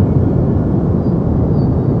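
Steady deep noise, a continuous low rumbling hiss with most of its weight in the bass and little treble, unchanging throughout.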